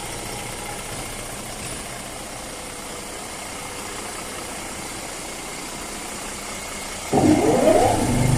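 Steady mechanical hum, then about seven seconds in a suspension tester's motor starts under the other wheel with a sudden onset and a rising whine as it spins up. It settles into a steady low drone as the plate shakes the wheel.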